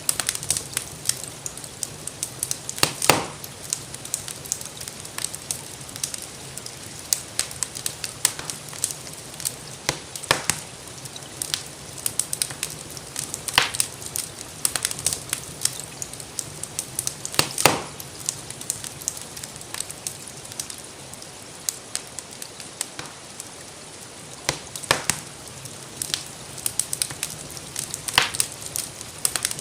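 Wood fire crackling in a fireplace, with irregular small pops and a few louder snaps spaced several seconds apart, over a steady hiss of gentle rain.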